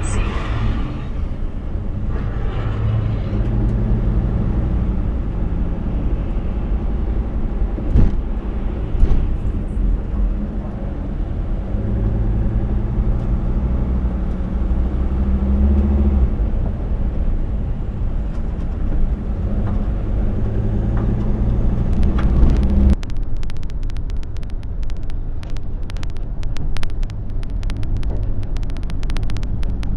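Car driving on a highway: steady low engine and road rumble, with a sharp click about eight seconds in. About two-thirds of the way through the sound turns to a harsher crackling made of many rapid ticks over a lighter rumble.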